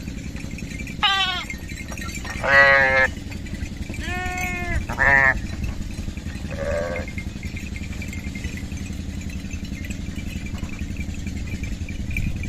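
Lambs bleating: five short quavering bleats in the first seven seconds, then no more calls, over a steady low background rumble.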